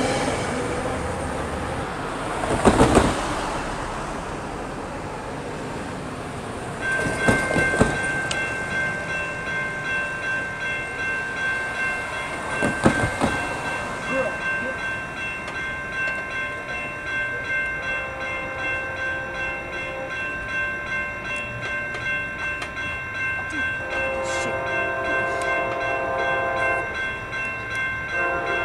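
Railway warning bells ring steadily, pulsing about once a second, from about seven seconds in as a train approaches. Three brief thumps are the loudest sounds. A train horn sounds for about three seconds near the end.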